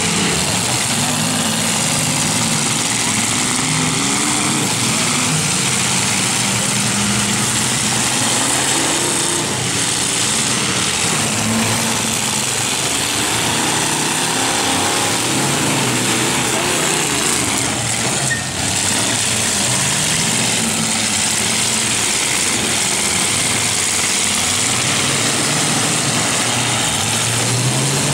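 Several demolition derby truck engines running and revving, their pitch rising and falling over a constant loud din, with a brief dip in level a little past halfway.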